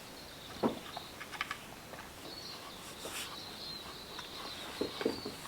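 High, steady chirring of insects in the bush, with a few short knocks and scuffs about half a second in and again near the end.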